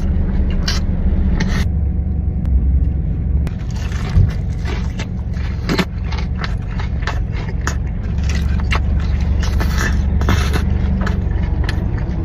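Close-up eating of a smash burger: chewing and biting, with many short crunchy clicks over a steady low rumble.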